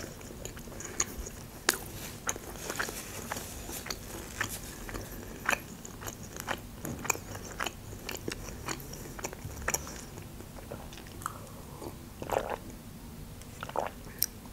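Close-miked chewing of a bite of homemade pounded meat chop, with irregular sharp crunchy mouth clicks.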